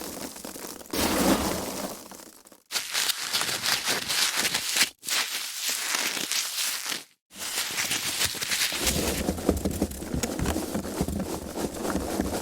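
Foam packaging being handled: dense crackling and crinkling rubs, broken by three brief near-silent gaps.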